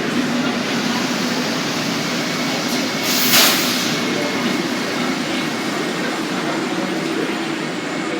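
Montreal Metro rubber-tyred train running through a station: a steady rumble with a low hum, and a short, loud hiss about three seconds in.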